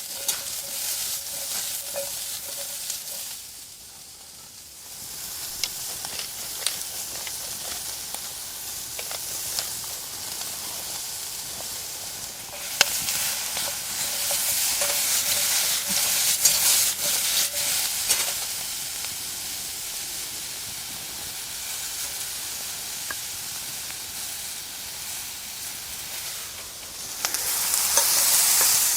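Food sizzling in a pot over a campfire while being stirred, with scattered sharp clicks. The sizzle drops away briefly about four seconds in, then swells again in the middle and near the end.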